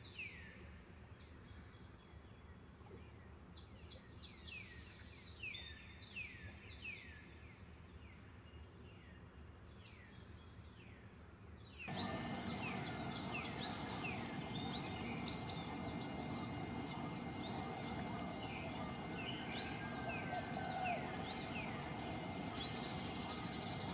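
Wild birds singing in repeated short chirps over a steady high-pitched insect drone. About halfway through the sound changes abruptly: the rush of flowing water comes in, louder, and the birds' calls turn to sharp rising whistles.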